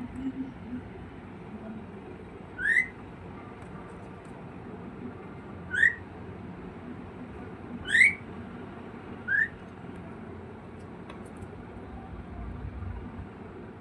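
Pet bird giving four short rising whistled calls a few seconds apart, calling for its owner.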